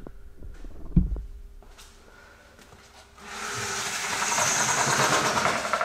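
Two knocks about a second apart, then a steady hiss that starts about three seconds in and lasts roughly two and a half seconds.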